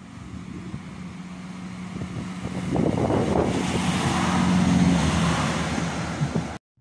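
Diesel multiple unit passenger train approaching and passing close by, with a steady engine hum under rising wheel and rail noise that is loudest as it passes beneath. The sound cuts off abruptly near the end.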